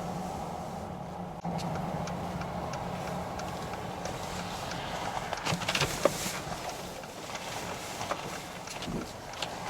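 Car engine running, heard from inside the cabin as a steady low hum, with a cluster of sharp clicks and knocks a little past halfway and a few more near the end.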